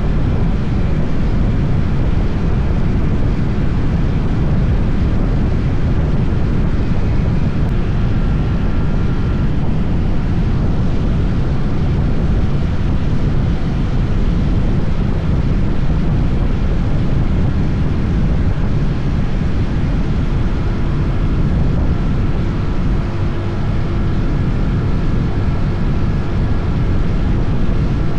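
SYM NH 180 motorcycle running at a steady cruise, its engine drone half buried under wind rushing over the microphone.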